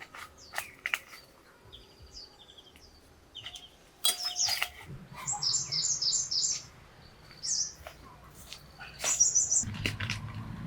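Birds chirping in short high calls, with a quick run of about six notes midway and another burst of chirps near the end.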